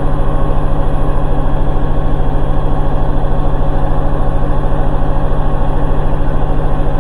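Hoover H-Wash 300 Plus washing machine on its spin cycle, the drum turning fast with an even, rapid pulsing and a deep hum. The machine rattles as the load deflector shakes.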